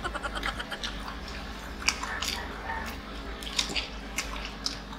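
People chewing and biting into breaded chicken nuggets: wet mouth sounds with scattered sharp clicks.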